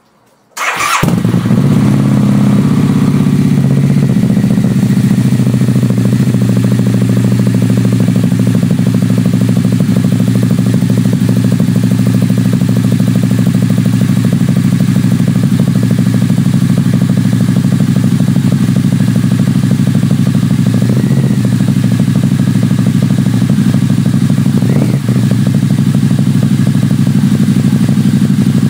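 Harley-Davidson Night Rod Special's liquid-cooled Revolution V-twin cranking and catching about half a second in, then idling steadily and loudly. The idle runs a little faster for the first few seconds and then settles lower.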